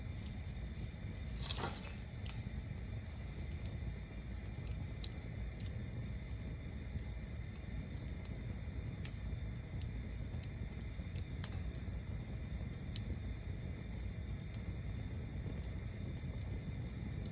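Wood bonfire burning, with a steady low rumble and scattered sharp crackles and pops from the burning wood. The loudest crackle comes about a second and a half in.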